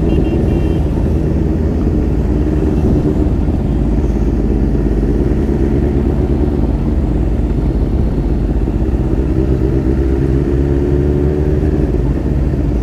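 Motorcycle engine running steadily at a constant cruising pace, a loud, even low drone with no change in revs.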